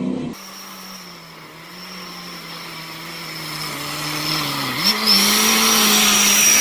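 Car engine running with a steady hum. Its pitch sags slowly, then jumps back up about five seconds in, and it gets louder toward the end.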